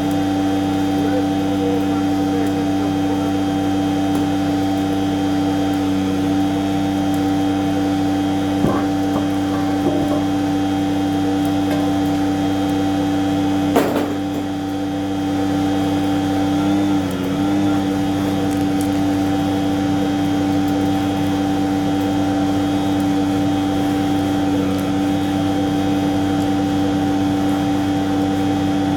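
A tanker truck's machinery runs at a steady speed: a constant-pitched mechanical hum. A single sharp knock comes about 14 seconds in.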